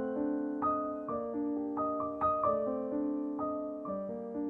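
Background piano music: a gentle melody of single struck notes, two or three a second, each fading away.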